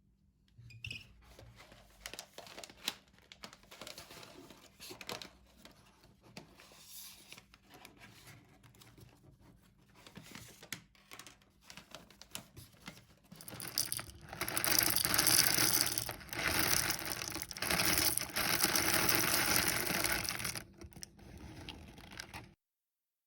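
Small household handling sounds: scattered soft taps and rustles, then about six seconds of louder, even, noisy rustling that stops shortly before the end.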